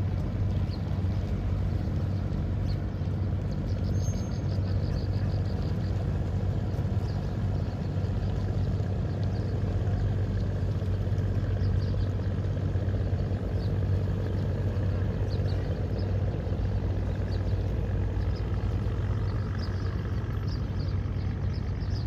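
Steady low rumble of outdoor ambience, with faint, brief high chirps scattered through it.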